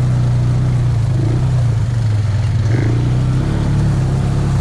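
ATV engine running steadily at a low, even pitch.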